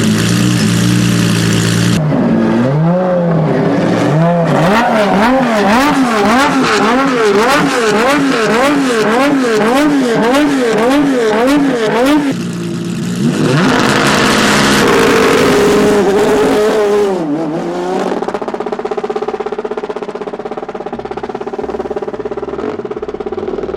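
Lamborghini Essenza SCV12's V12 running steadily just after a cold start. It is then revved again and again in quick blips, about one a second, for about ten seconds. After a short rushing burst it settles back to a steady, quieter idle.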